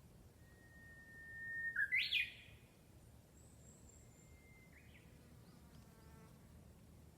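A wild bird singing: one long steady whistle that swells in loudness, then a quick rising flourish of notes about two seconds in. A fainter, shorter phrase follows a few seconds later.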